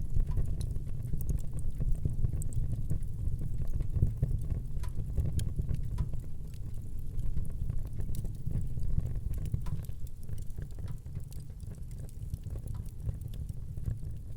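Wood fire burning in a fireplace: a steady low rumble of flame with frequent small, sharp crackles and pops throughout.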